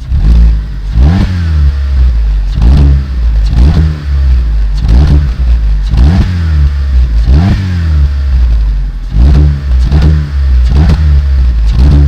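Peugeot 206 1.4 16v four-cylinder petrol engine revved loudly in repeated throttle blips. Each rev rises in pitch and falls back, about once a second, coming quicker near the end.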